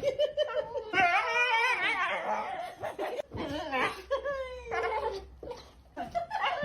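A dog vocalising in long, wavering calls, with people laughing.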